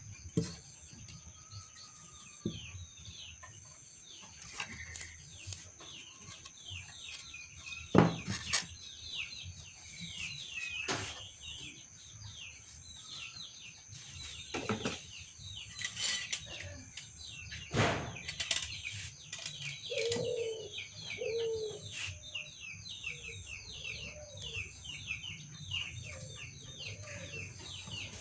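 Many small birds chirping in a dense, rapid chorus, over a steady high-pitched tone. There are a handful of sharp knocks, and from about two-thirds of the way in a dove cooing in repeated low calls.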